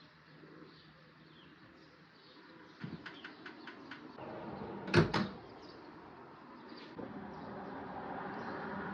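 Kitchen cupboard door shutting with a sharp double knock about five seconds in, after a run of light clicks. A steady hiss grows louder near the end.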